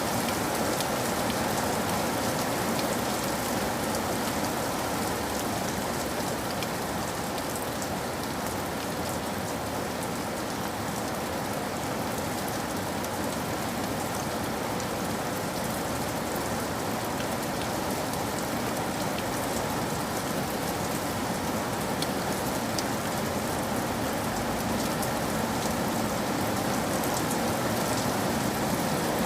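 Steady rain falling on a roof, an even hiss with scattered sharp ticks of single drops.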